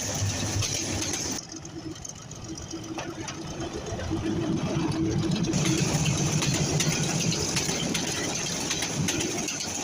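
Diesel locomotive engine running with a rhythmic mechanical clatter. It changes abruptly just over a second in, then grows louder from about four seconds in.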